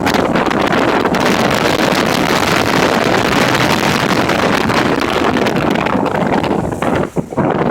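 Storm-force wind, over 35 metres per second, blasting across the microphone as a loud, dense rush of noise, with a brief lull about seven seconds in.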